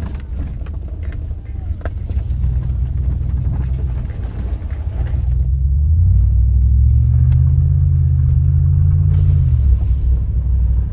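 Vehicle engine and tyre rumble heard from inside the cab on a dirt road. The engine pulls harder about six seconds in and eases off near the end.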